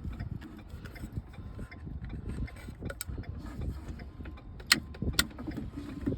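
Irregular mechanical clicks and rattles over a steady low rumble, with two sharp clicks about half a second apart about three-quarters of the way through.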